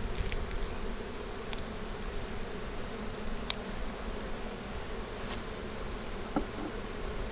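Honey bees buzzing as a steady, many-voiced hum around an open hive, with a few light clicks and one sharp click about halfway through.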